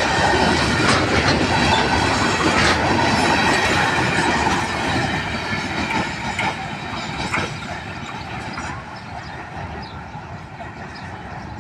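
Freight train of hopper wagons rolling past close by, steel wheels clattering over the rail joints with sharp clicks. The sound grows fainter from about halfway through as the train draws away.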